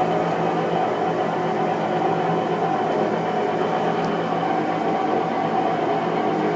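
Whirlpool Cabrio washing machine on its spin cycle, making a loud, steady whirring rumble with a constant hum. This is an abnormal noise from a washer fault that was repaired under warranty.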